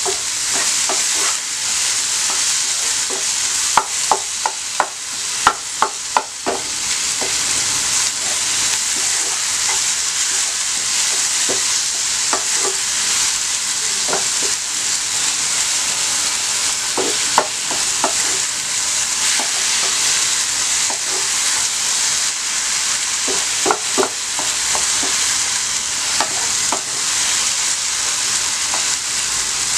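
Onion and tomato masala sizzling in a nonstick frying pan as the tomatoes cook down, stirred with a wooden spatula that knocks and scrapes against the pan. A quick run of knocks comes about four to six seconds in, with a few more later.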